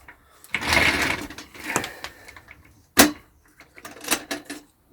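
A metal ash vacuum being handled and opened to reach its filter: a rough scraping rustle, a sharp clack about three seconds in, then a few quick clicks.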